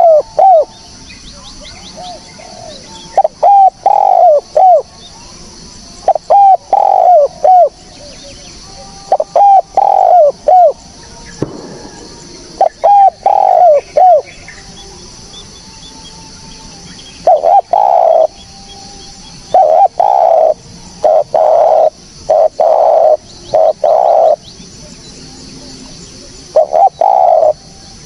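Spotted dove cooing loudly: repeated phrases of three or four short notes about every three seconds, turning to longer, closer-spaced coos in the second half.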